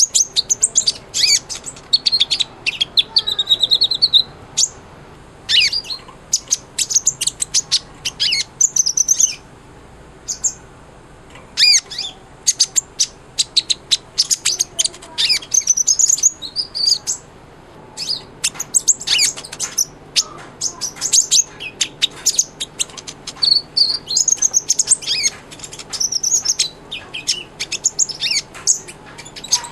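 Kolibri ninja sunbird singing: a fast, high-pitched run of chirps, trills and short whistles, coming in bouts of a few seconds with brief pauses between them.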